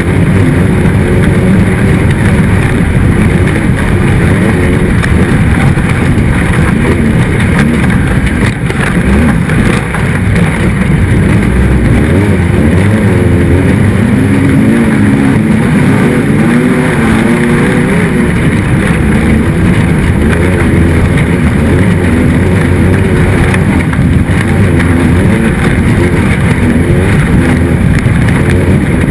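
Race car engine running hard and loud, its pitch rising and falling as the throttle comes on and off.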